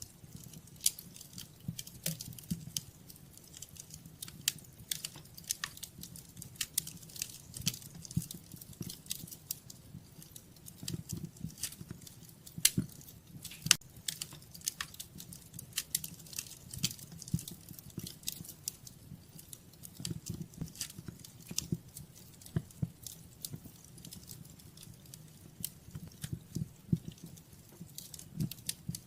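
Wood fire crackling in a fireplace: a dense run of irregular snaps and louder pops over a low, steady rumble of the flames.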